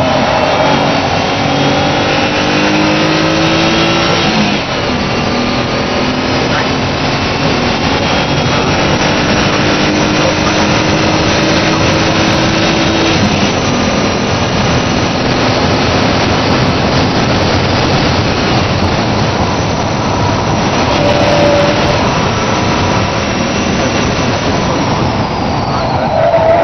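Mazda Xedos 6's V6 engine pulling hard at high revs, heard from inside the car over wind and road noise. The pitch climbs, drops at a gear change about four and a half seconds in, climbs again and then holds, and the revs fall near the end.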